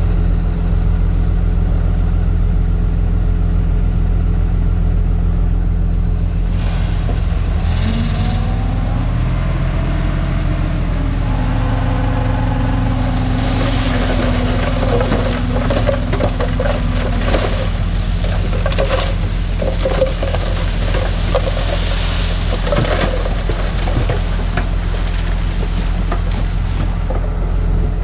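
Heavy diesel earthmoving machinery running with a steady low drone. The engine rises in pitch as it revs up from about eight seconds in. From about halfway through, a long run of sharp crackling and clattering lies over the engine.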